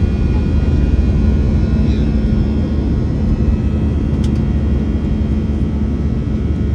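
Steady cabin noise of an Airbus A321 in flight during its takeoff and climb: a deep, even rumble of jet engines and airflow with a few faint steady whining tones above it. A faint click about four seconds in.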